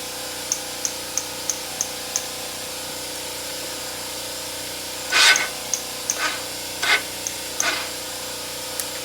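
ATV electric starter being tried on a run-down battery: a run of light, evenly spaced clicks, then four short bursts as the starter briefly tries to crank without the engine catching.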